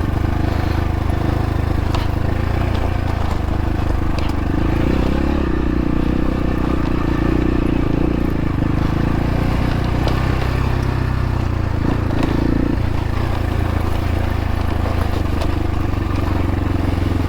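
Xpro Templar X dirt bike engine running under way at a fairly steady pitch, shifting with the throttle a few times, with occasional sharp knocks and clatter.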